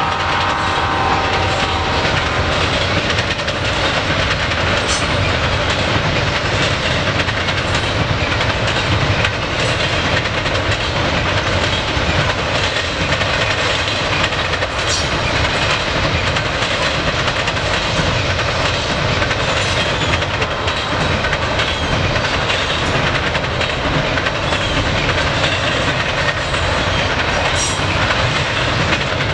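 Norfolk Southern double-stack intermodal freight train passing close by. The tail of the locomotive's horn fades out in the first two seconds. Then comes a steady rumble and rattle of the stack cars rolling over the rails, with a few sharper clicks.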